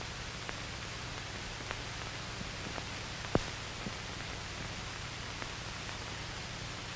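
Old film soundtrack noise: steady hiss with a low hum and scattered crackling clicks, one louder pop about three and a half seconds in.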